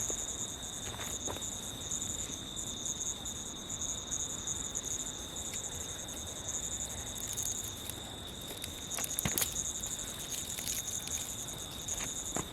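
Insects chirring without a break in a steady high drone, with a second, higher buzz that swells and fades. There are a few light clicks and knocks, most of them about nine seconds in.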